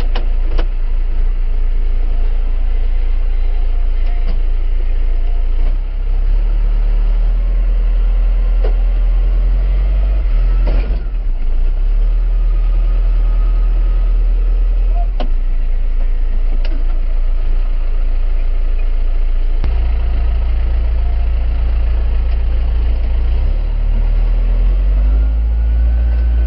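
A heavy vehicle engine running close by, its speed stepping up and down several times and rising near the end, as during a tow recovery. A few short knocks sound over it.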